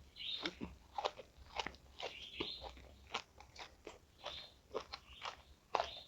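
A person chewing and biting crunchy food close to the microphone: irregular crisp crunches, a few each second.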